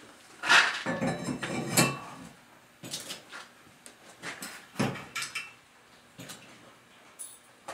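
Knocks and clatter of metal hardware and wooden cart parts being handled, a run of them in the first two seconds, then single knocks and clicks spread through the rest.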